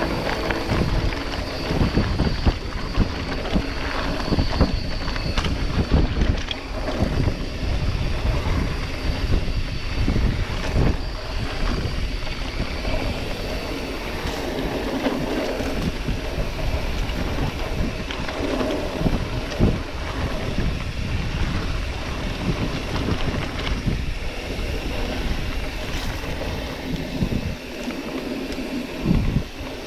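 Wind buffeting the microphone of a camera riding along on a mountain bike, with steady rough noise and many small knocks and rattles from the bike going over uneven trail.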